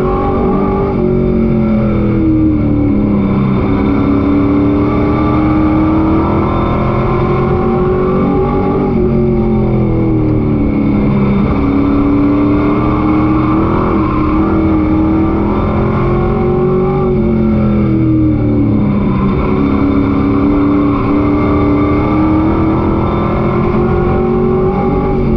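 Pro Truck race engine heard onboard at racing speed, its pitch climbing and falling every four to five seconds as the driver accelerates along the straights and lifts for the turns, over steady wind and road noise.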